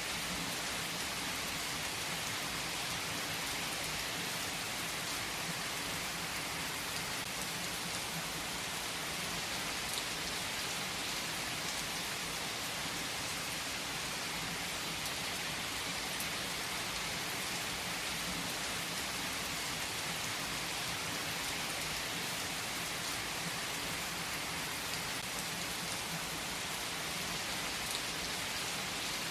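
Steady rain falling and pattering on surfaces, an even hiss with faint scattered drop ticks and no change in intensity.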